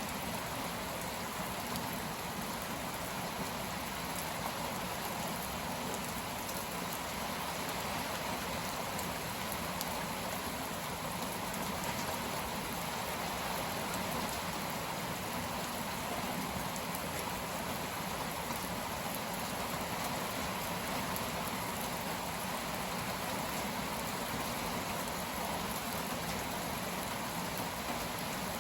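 Heavy, steady downpour: rain pouring down and pattering on surfaces as a convective cold front passes.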